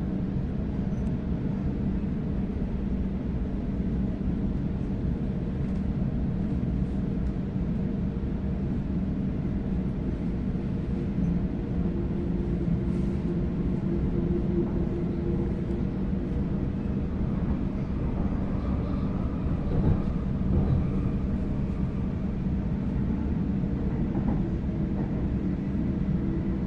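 Steady low rumble of wheels on track heard inside a moving Sydney Trains Waratah electric train carriage, with a faint hum coming in partway through and a louder jolt about twenty seconds in.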